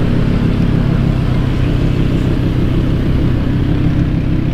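Audi R8 V10 Plus's 5.2-litre V10 idling steadily.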